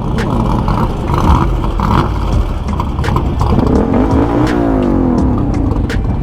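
Shelby Cobra replica car's engine revving as it pulls away, the pitch rising and then falling near the middle.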